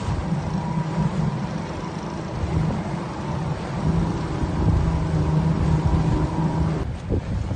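Motorboat engine running at a steady pitch while the boat is under way, its even hum breaking off about seven seconds in.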